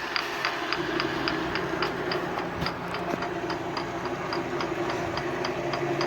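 Water-driven Odra drum hose-reel irrigator running, its drive mechanism ticking steadily at about three or four sharp clicks a second over a steady low hum.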